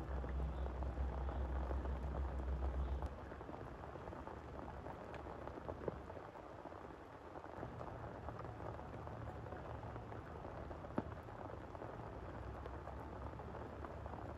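Heavy rain falling steadily, with scattered individual drops striking close by. A deep low rumble sits under the rain for the first three seconds, then drops away.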